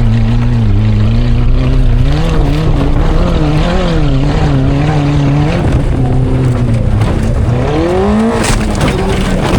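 Rally car engine running hard under racing throttle, its pitch rising and falling repeatedly as the revs climb and drop, with a brief clatter of knocks near the end.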